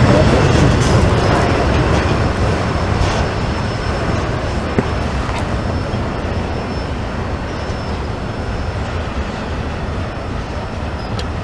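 Freight train rolling past, a steady rumble and rattle of the cars that slowly gets quieter.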